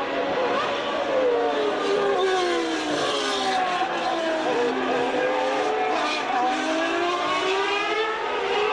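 Several 1989 Formula One cars with naturally aspirated 3.5-litre engines running at racing revs, their pitches overlapping, falling and then rising again as they lift off and accelerate.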